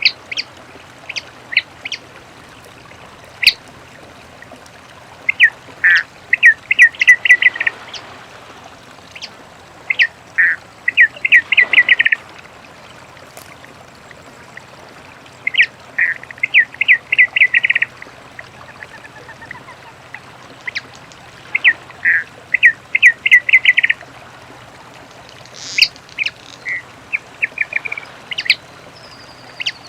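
Papa-piri (many-colored rush tyrant) singing: phrases of quick repeated notes, each about two seconds long, coming every four to six seconds, with single sharp call notes in between.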